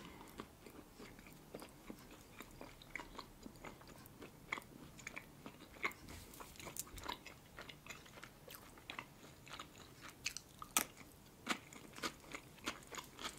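A person chewing a mouthful of food close to the microphone: soft, irregular wet mouth clicks and small crunches, several a second, with no speech.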